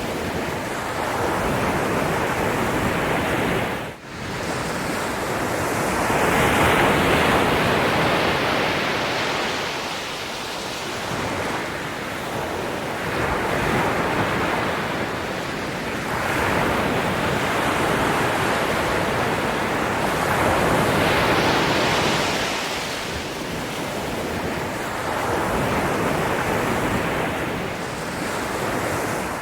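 Ocean waves breaking and washing onto the shore, swelling and easing every few seconds, with a brief sharp dip in level about four seconds in.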